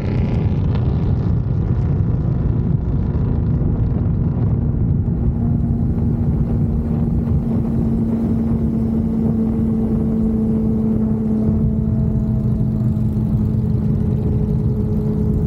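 Motorcycle engine running steadily at cruising speed, with heavy wind rumble on the microphone. An even engine tone holds throughout.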